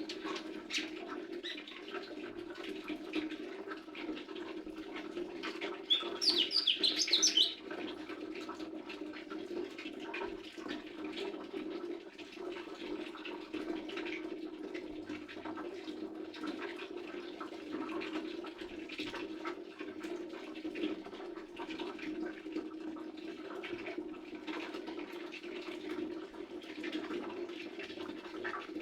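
Lesser green leafbird calling: a burst of rapid, high chirps about six seconds in, with fainter scattered chirps after, over a steady low hum.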